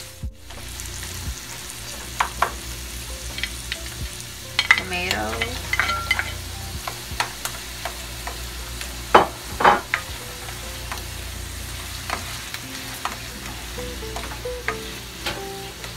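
Diced onion, garlic and chopped tomato sizzling in hot oil in a nonstick frying pan, stirred with a plastic spatula that scrapes and taps against the pan. Two sharper knocks of the spatula on the pan come about nine and ten seconds in.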